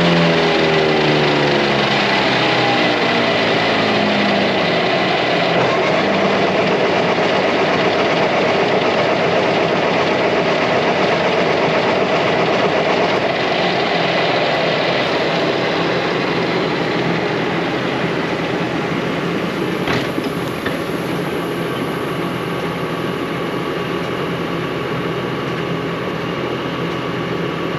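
Tractor engine driving the freshly repaired PTO-driven hay mower, running up under test. The revs fall over the first few seconds, then it settles into a steady run with no belt squeal.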